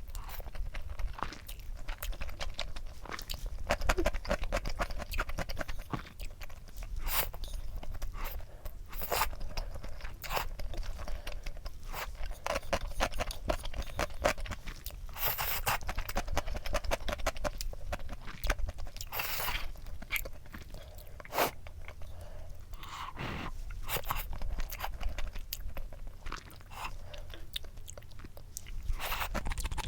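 A person chewing and biting crunchy food close to the microphone, with repeated crisp crunches: mukbang eating sounds.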